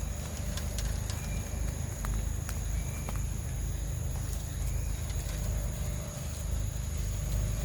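Outdoor ambience: a steady low rumble with a thin, steady high-pitched hum and a few faint scattered ticks.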